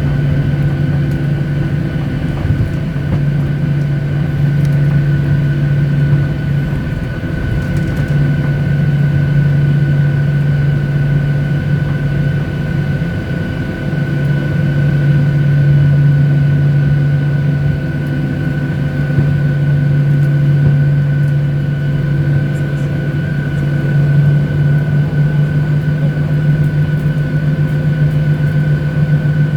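Cabin noise inside a Boeing 737-800: a steady hum from its CFM56 engines and air system, with a steady high whine over it. The pitch holds level throughout, with no spool-up.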